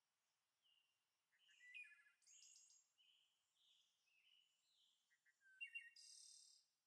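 Near silence, with faint, brief bird chirps and whistles in the background, in two short clusters about a second and a half in and again near the end.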